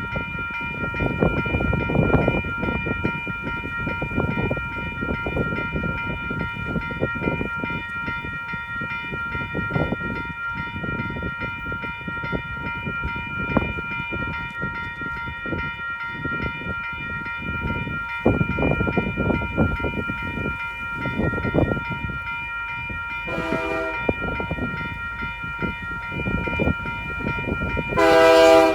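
WCH Type 2 electronic crossing bells ringing steadily, a rapid repeated chime over a low rumble from the approaching train. The locomotive horn sounds a short blast about 23 seconds in, then a louder blast near the end.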